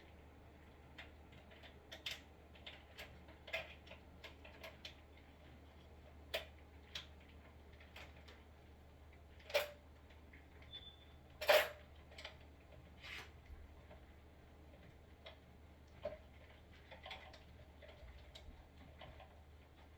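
Irregular small clicks and taps as hands work electrical wires and their connectors in an electric water heater's wiring box, two of them louder about halfway through, over a faint steady low hum.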